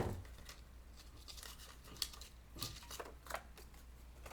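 Sheet of craft paper being handled, rustling and crinkling in short faint bursts, after a sharp knock right at the start.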